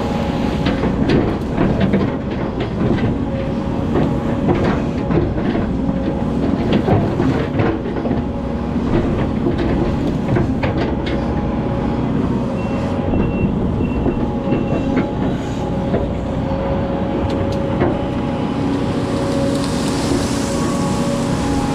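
Hydraulic excavator's diesel engine running steadily under work, with frequent clanks and knocks throughout.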